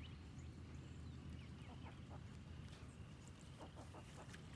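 Faint, scattered calls of backyard poultry: hens clucking, with ducks quacking from a neighbouring pen, and a cluster of calls about three seconds in. A steady low rumble runs underneath.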